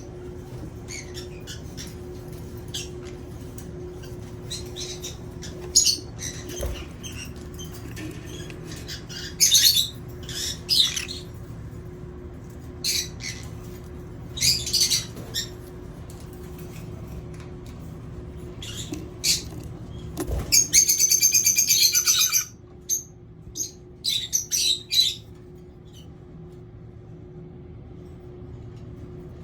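Lovebirds chirping and squawking in short scattered calls, with a rapid chattering burst of about two seconds some twenty seconds in, over a steady low hum.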